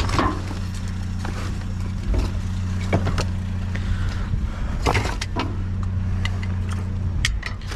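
A vehicle engine idling steadily, with short clanks and knocks of junk and scrap being handled, the sharpest about three, five and seven seconds in.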